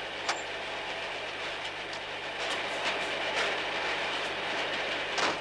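A train running along the track: a steady rumble with irregular clicks of the wheels over the rail joints, and a sharper knock near the end.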